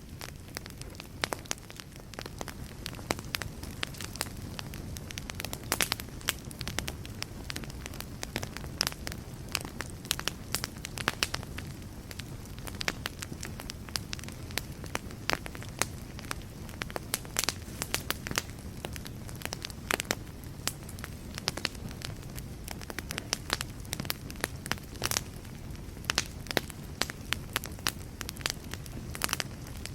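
Fireplace fire crackling: irregular sharp pops and snaps, several a second, over a steady low rushing of the flames.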